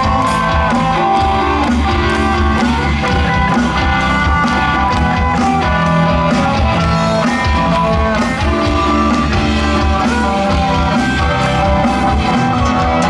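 Live rock band playing an instrumental passage: lead guitar melody over bass and a steady drum-kit beat.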